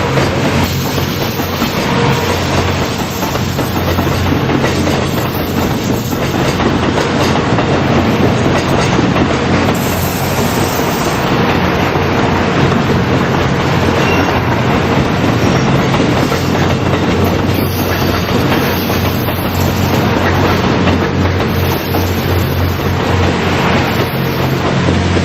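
A long train passing close by over a level crossing, its wheels clattering over the rail joints.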